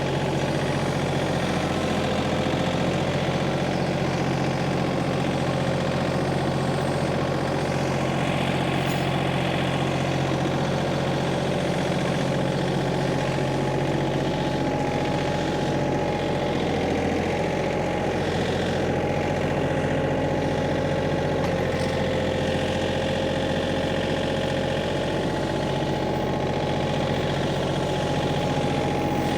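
Tractor engine running steadily at an even speed while pushing a log up onto a trailer.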